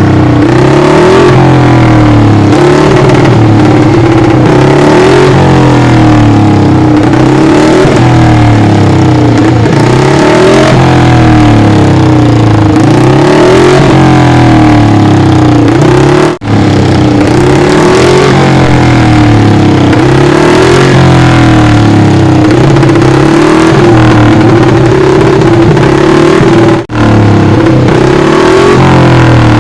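Moto Guzzi 350 Bialbero's single-cylinder twin-cam four-stroke engine revved again and again, loud, its pitch rising and falling every couple of seconds. The sound cuts out for an instant about halfway through and again near the end.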